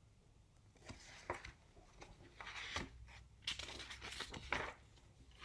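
Picture-book page being turned: paper rustling, with a few soft ticks and taps from handling the book, lasting about three and a half seconds.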